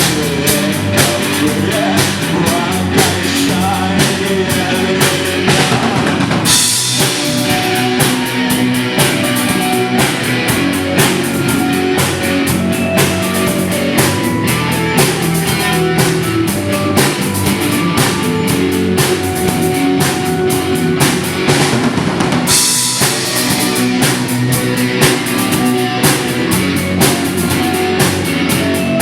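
Live rock band playing an instrumental passage: drum kit keeping a steady beat under electric guitar and bass. About six seconds in the deep bass thins out and a bright cymbal wash takes over, until the full low end comes back about twenty-two seconds in.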